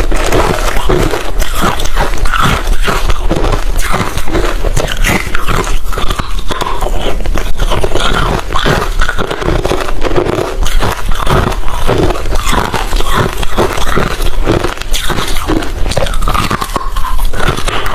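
Close-up mouth sounds of someone chewing hard refrozen crushed ice: dense, continuous crunching and cracking.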